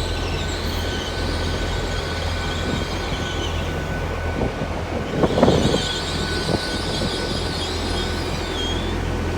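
Great Western Railway Class 802 train coming into the platform, its wheels and brakes squealing high over a steady low hum from the train. There is a short knock about five and a half seconds in.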